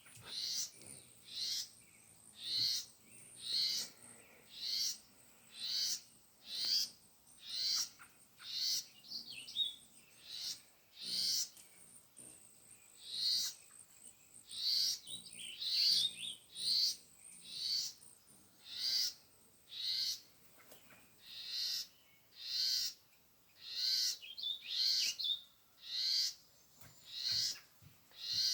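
A backyard bird repeating a short, high call about once a second, on and on without a break.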